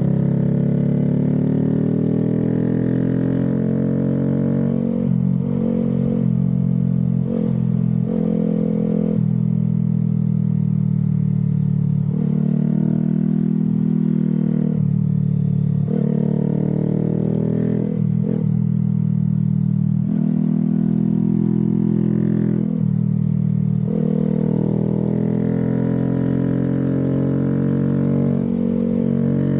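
Honda Grom 125's single-cylinder four-stroke engine, ridden hard: the pitch climbs under throttle, then dips briefly each time the throttle closes, about every few seconds.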